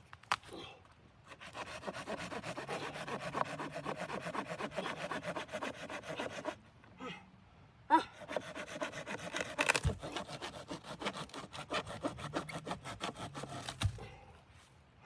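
Wood being sawn by hand in two spells of steady, even strokes, with a short pause between them and a sharp knock about eight seconds in.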